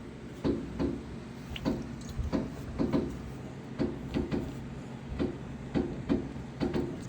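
A series of dull thumps at irregular spacing, one to two a second, over a low background.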